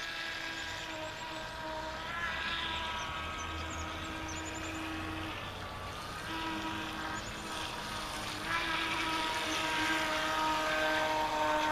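Kyosho Dolphin RC outboard, driven by a stock 27-turn brushed motor through a new flex shaft, running with a steady whine whose pitch shifts with throttle. It grows louder about eight and a half seconds in.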